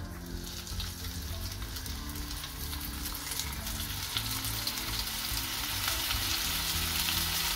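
Tuna steaks sizzling and crackling in hot olive oil in a frying pan as they go in to sear. The sizzle starts at once and grows slowly louder.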